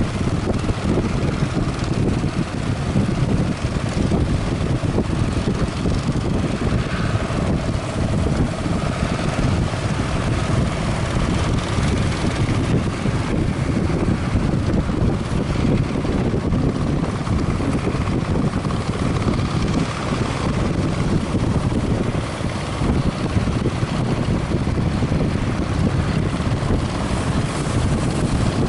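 Strong wind buffeting the microphone as a steady, fluttering low rumble, with a boat engine droning faintly through it.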